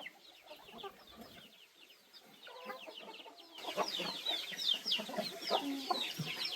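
Chickens clucking, with many short, high, falling calls over the lower clucks. The sound is sparse and quieter at first, then busier and louder from about three and a half seconds in.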